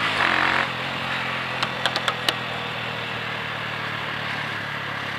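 A vehicle engine idling steadily, with a quick run of four sharp clicks about two seconds in. A loud held sound carries over from just before and cuts off about half a second in.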